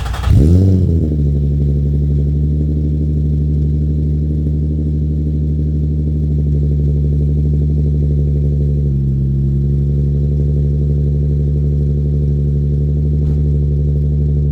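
Nissan 350Z's 3.5-litre V6 flaring just after starting, then settling within about a second into a steady idle through a catless exhaust of test pipes, a DC Sports Y-pipe and a single-exit muffler. The idle drops slightly about nine seconds in.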